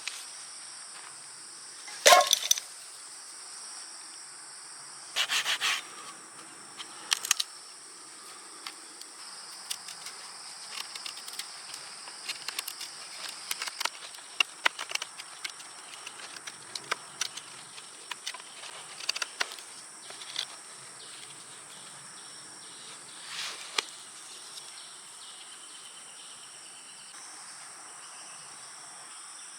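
Insects chirring steadily in an even, high drone, with scattered knocks and clicks over it, the loudest about two seconds in, a cluster around five to seven seconds, and another near 24 seconds.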